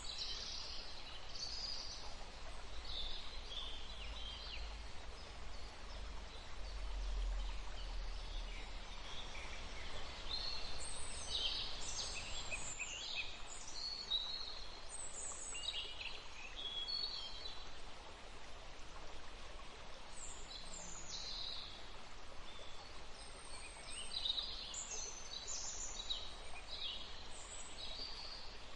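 Several songbirds singing and chirping in short high phrases, in clusters with brief lulls, over a steady background hiss of forest ambience. There is a low rumble in the first few seconds.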